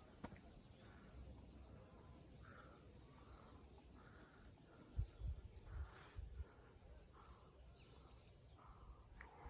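Faint trail ambience: a steady high insect drone, with a few soft footstep thuds about five to six seconds in.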